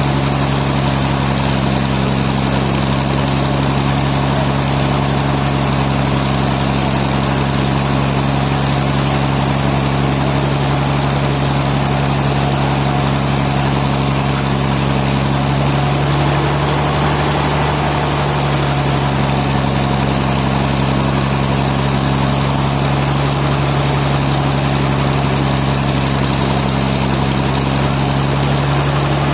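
Sawmill machinery running with a steady, loud hum and a constant low drone, which wavers briefly a little past halfway through.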